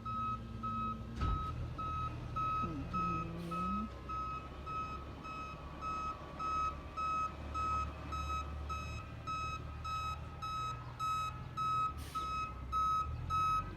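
Garbage truck's reversing alarm beeping steadily at one pitch, about two beeps a second, over the low running of the truck's engine: the truck is backing up. A sharp knock sounds about a second in and again near the end.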